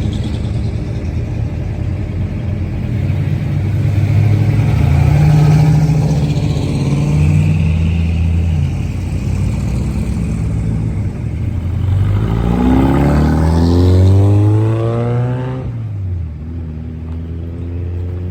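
Car engine revving: its pitch rises and falls a couple of times, climbs sharply in one long rev, then drops back to a steady idle near the end.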